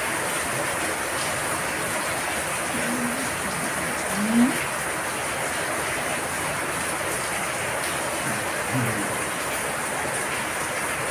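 Heavy rain, a steady hiss. A few brief low pitched sounds come through it, the loudest about four seconds in.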